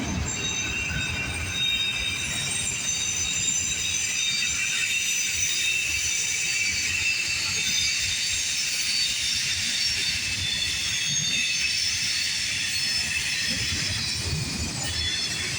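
Loaded autorack freight cars rolling past with a steady low rumble, and a continuous high-pitched squeal from the wheels on the rails.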